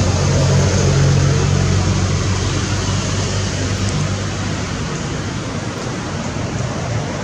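Steady low engine hum under an even rushing noise, easing off slightly a couple of seconds in.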